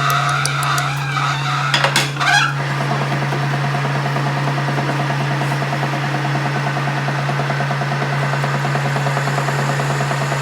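A workshop machine running steadily with a constant hum and a rapid, even pulse, after metal clinks and rattles in the first two seconds or so.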